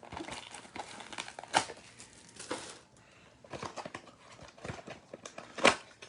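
Cardboard trading-card box being opened and its foil-wrapped packs handled: scattered rustling and crinkling with light knocks, the sharpest knock about a second and a half in and another near the end.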